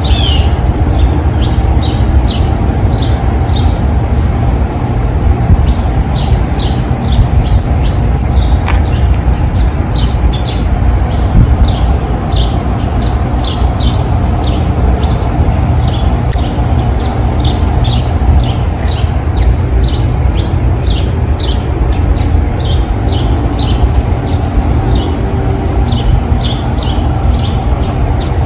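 Small songbirds giving many short, sharp chirps, often several a second, over a steady low rumble.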